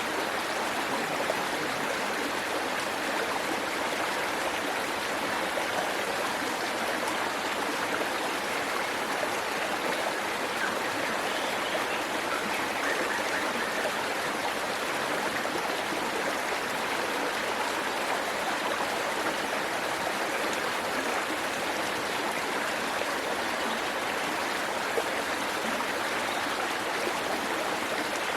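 Waterfall and stream water rushing with a steady, even hiss that never lets up.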